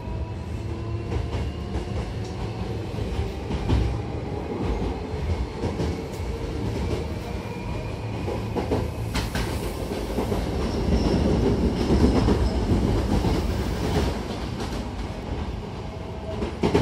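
Hankyu electric train heard from inside the passenger car as it pulls away and gathers speed. A whine rises in pitch over the first few seconds under a steady rolling rumble with wheel clatter over the rail joints. The running noise grows louder around the middle as the train reaches speed.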